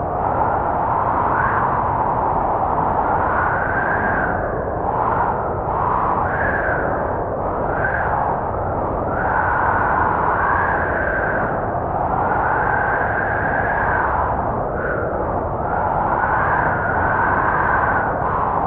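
Snowstorm wind blowing steadily, with a howling whistle that rises and falls in pitch as the gusts come and go.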